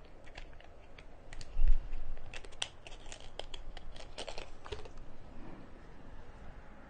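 Hands handling a small memory card and plastic gadget parts: light scattered clicks, taps and rustles, with one dull thump about a second and a half in.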